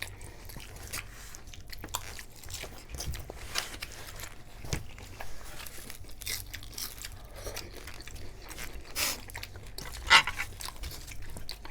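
Close-up biting and chewing of Doritos nachos: irregular crisp crunches of the tortilla chips, the loudest one about ten seconds in.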